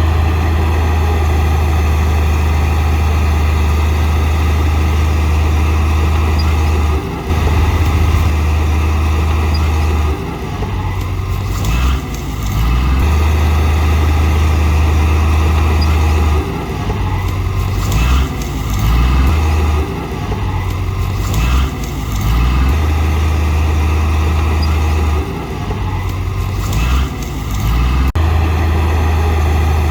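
Heavy diesel bulldozer engine running under varying load, its deep hum steady for stretches and changing note every few seconds as the machine works. Short spells of clatter and scraping come in several times through the middle and later part.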